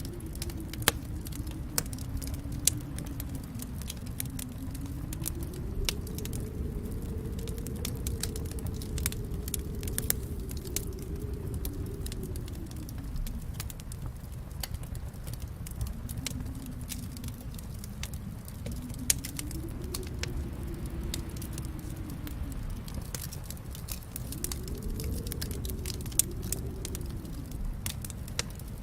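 Fire burning in a fireplace: a steady low rumble of flames with constant small crackles and snaps, and a few louder pops.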